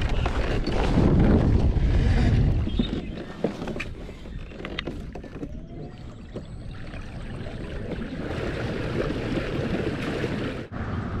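Kayak moving off across the water in strong wind, with wind buffeting the microphone as a heavy low rumble for the first few seconds, then easing to a steadier rush. Scattered small knocks run through it.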